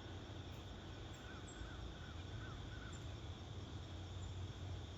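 A bird calling a quick run of about six short notes, starting about a second in, over a steady insect drone and a faint even hiss.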